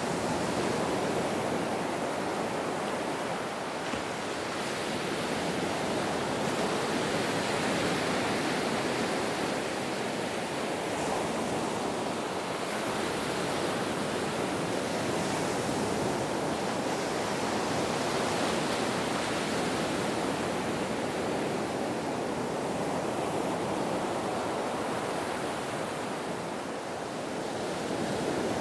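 Ocean surf: a continuous wash of breaking waves that swells and eases slowly, with softer lulls about four seconds in and near the end.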